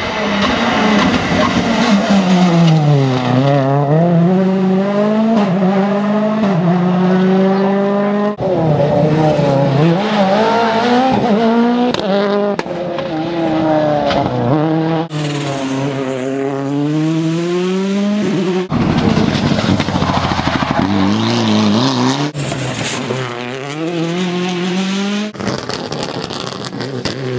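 World Rally Cars' turbocharged four-cylinder engines passing on a rally stage, in a string of clips that cut abruptly. In each, the engine note drops as the car brakes and downshifts into a corner, then rises through the gears as it accelerates away, with some tyre squeal.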